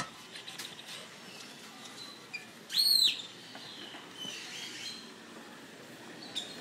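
A bird gives one loud, short high call that rises and falls in pitch, about three seconds in, with fainter bird chirps scattered around it.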